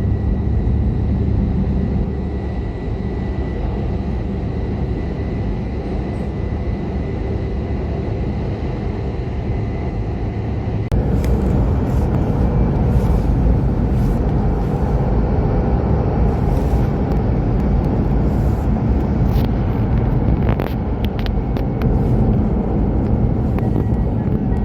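E5 series Shinkansen running at speed: a steady low rumble with a faint thin whine over it. About eleven seconds in the noise gets louder and rougher, with scattered clicks and knocks.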